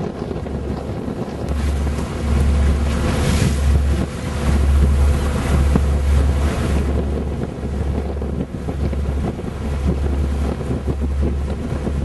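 Wind buffeting the microphone aboard a yacht under way, with a rumble and the rush of water and waves alongside. The hiss swells for a few seconds in the middle.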